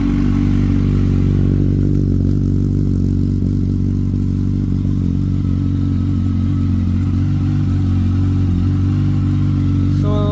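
Yamaha R1's inline-four engine idling steadily just after starting, holding an even pitch without revving.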